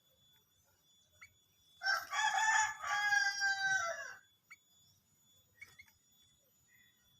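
A rooster crowing once, a call of a little over two seconds that sags in pitch at the end, with a few faint clicks around it.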